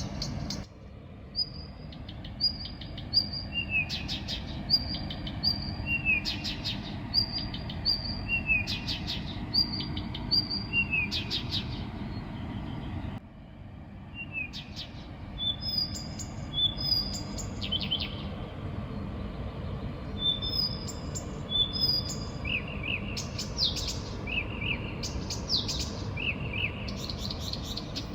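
A songbird singing at night, delivering a continuous string of short repeated phrases: high clear notes often in pairs, lower down-slurred notes, and quick descending trills. A steady low background rumble lies underneath.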